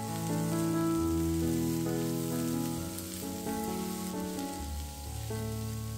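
Shredded cabbage sizzling steadily as it fries in a pan, over background music with a gentle melody.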